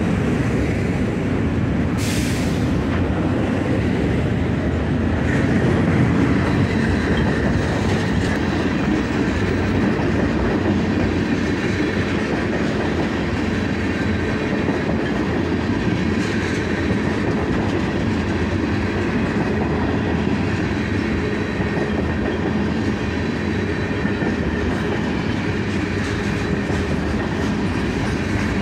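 Trains passing: a SEPTA commuter train close by at the start, then a long CSX freight train of tank cars rolling past with a steady wheel rumble and the clickety-clack of wheels over rail joints. There is a sharp click about two seconds in.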